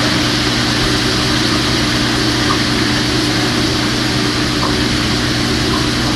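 Steady machine drone: a constant low hum with an even rushing noise over it, unchanging throughout.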